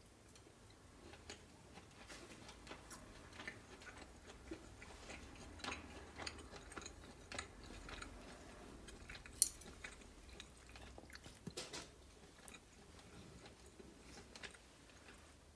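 Close-miked chewing and soft mouth clicks of someone eating a bite of grilled lamb chop, with one sharper click about nine seconds in. Near the end, knife and fork tap lightly on a ceramic plate.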